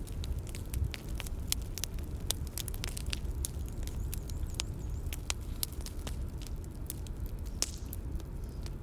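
Bonfire crackling: irregular sharp pops and snaps over a low steady rumble.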